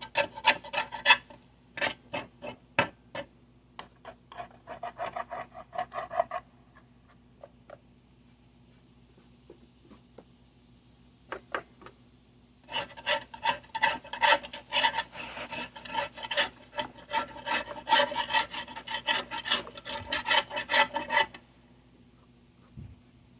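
Hand scraper scraping caked grass off the underside of a metal lawn mower deck in quick repeated strokes, working it down to the paint. The scraping comes in bursts with pauses, the longest run from about halfway through to near the end.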